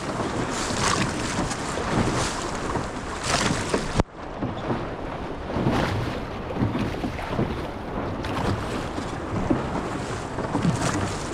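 Wind buffeting the microphone over water splashing and slapping against the hull of a small sailing dinghy being rowed through short surf. About four seconds in there is a sudden click, and the high hiss thins out after it.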